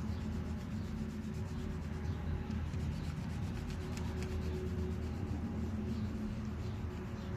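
Colouring on paper: steady rubbing strokes of a colour being filled in, over a low hum, with a couple of faint clicks.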